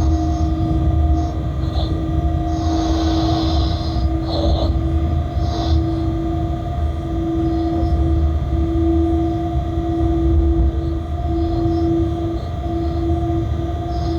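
Inside a freight locomotive's cab while the train runs: a steady low rumble with a constant hum-like tone, and a few short high hisses in the first half.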